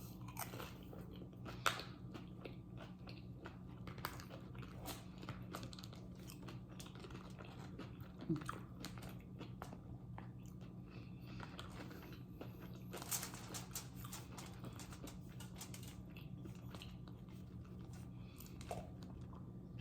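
A person chewing and biting food close to the microphone: wet chewing with scattered crunchy bites, and a quick run of crunches about 13 seconds in. A steady low hum runs underneath.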